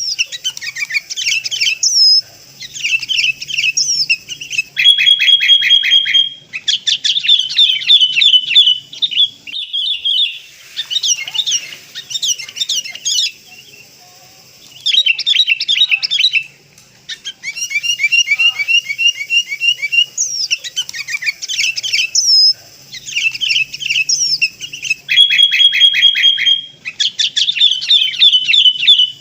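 Sooty-headed bulbul calling and chattering: loud bursts of rapid, fluttering notes with short pauses between phrases, the same phrases coming round again as in a repeated recording used to lure the birds.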